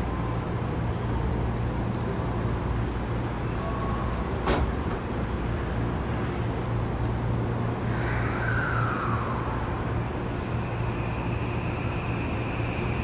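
Interior running sound of a Saitama Railway 2000 series electric train: a steady rumble from the wheels and track. There is a single sharp click about four seconds in, and a whine gliding down in pitch a little past halfway, followed by a steady high tone near the end.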